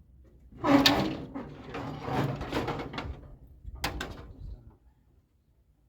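Metal parts of a convection microwave being handled and shifted, a rattling, scraping clatter with two sharp knocks about four seconds in.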